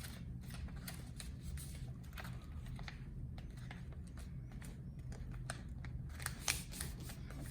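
A sheet of paper being folded and creased by hand: scattered light crackles and taps over a low steady hum.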